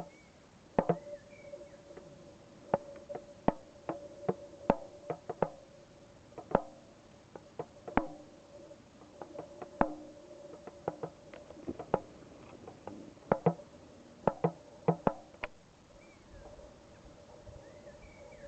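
Hand drumming: irregular sharp taps on a drum, with a steady ringing tone held between strikes. The taps stop about three quarters of the way through and the ringing tone carries on. A few faint high chirps come in between.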